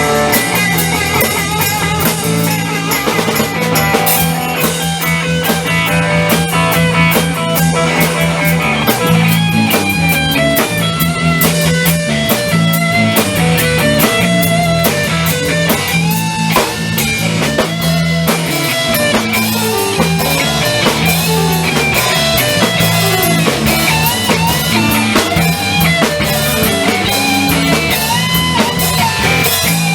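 Rock music with electric guitar, bass and drum kit playing an instrumental passage with a steady beat.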